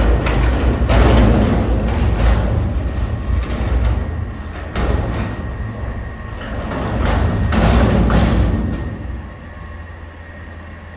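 Garbage truck working at close range: a loud low engine rumble with clattering and banging bursts, dying down about nine seconds in to a steady hum.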